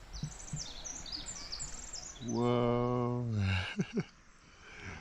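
Small birds chirping in quick, high, repeated notes. About two seconds in comes a loud, long, low call that falls slightly at its end, followed by two sharp clicks.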